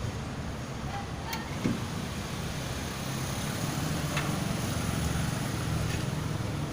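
A steady low rumble of a running vehicle engine, a little louder in the second half, with a couple of faint clicks.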